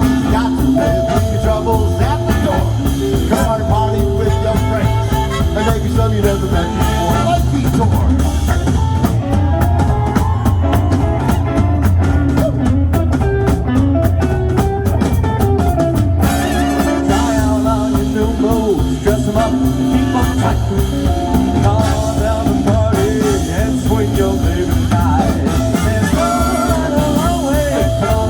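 A band playing an upbeat rock song with a singer, the drums keeping a steady beat.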